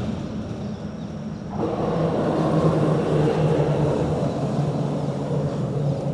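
Road traffic at a bridge: a steady low engine hum and tyre noise, growing louder about a second and a half in as a vehicle comes through.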